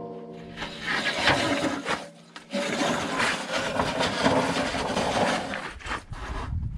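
The husk of a Belsaw M-14 sawmill being pulled forward off the mill: a rough, continuous metal scraping and grating that lasts several seconds and dies away just before the end. A metallic ring from a clang fades out at the very start.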